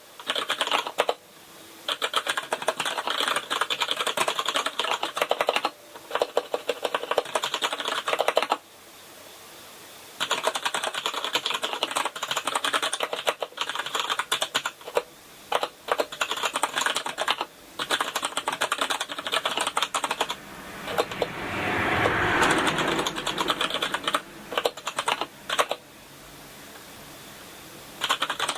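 Typing on a Kinesis Advantage contoured keyboard with brown tactile switches: fast runs of key clicks and bottom-outs broken by short pauses. A brief swell of louder noise comes about three quarters of the way through.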